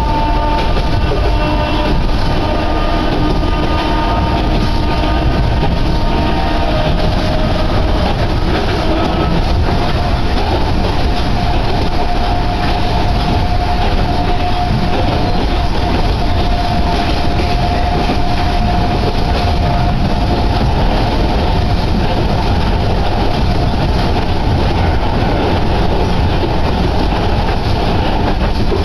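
Inside a Sangi Railway Hokusei Line narrow-gauge train under way: loud, steady running noise with a whine from the drive. The whine shifts in pitch over the first several seconds, then holds one steady tone.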